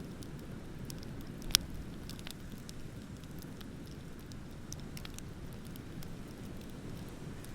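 Wood bonfire crackling with scattered sharp snaps and one loud pop about a second and a half in, over a steady low rumble.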